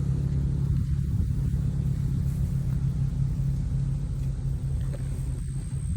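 Jeep driving along, its engine and the road giving a steady low rumble with an even hum.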